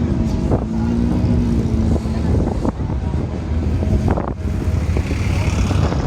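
Motorcycle engine running steadily on the move, with a few brief knocks.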